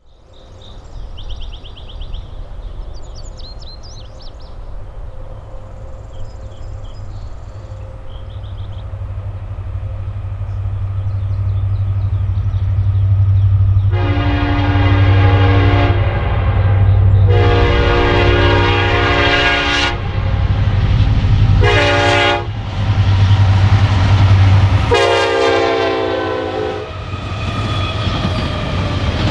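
Norfolk Southern EMD SD70ACe diesel locomotive approaching with its engine rumble growing louder, sounding its multi-chime air horn in the grade-crossing pattern: long, long, short, long. The last blast is lower in pitch as the locomotive passes, and the train's wheels clatter after it. Birds chirp in the first few seconds.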